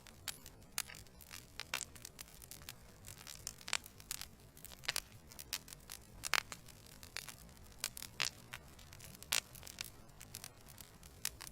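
Wood fire burning in a fireplace: logs crackling with irregular sharp pops and snaps over a low, steady rush of flame.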